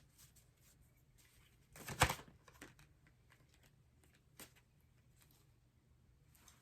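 Rider-Waite tarot cards being shuffled and handled: faint rustling and light card clicks, with one louder riffle about two seconds in.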